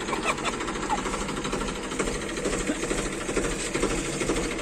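An engine running with a fast, steady clatter.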